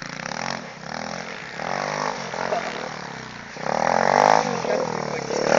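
Pit bike engine revving, its pitch repeatedly rising and falling with throttle and gear changes as it races round, growing louder about four seconds in.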